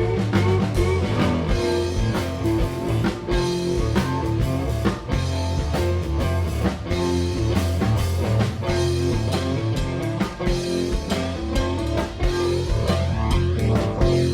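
Live blues-rock band playing an instrumental passage: electric guitar riffing over bass and a drum kit, with no vocals.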